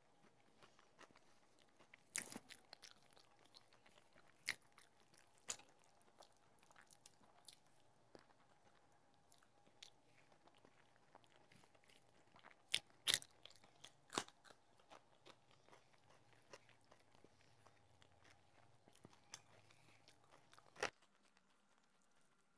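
Quiet eating sounds of a person eating rice and fish curry by hand: soft chewing and crunching with a few sharp mouth clicks scattered through, the loudest just past the middle.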